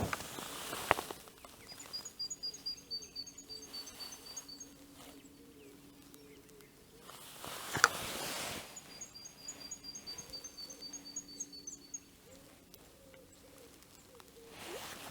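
A small songbird singing two high, thin phrases of rapid notes, each about three seconds long, several seconds apart. A few sharp clicks or knocks come at the start and about halfway through.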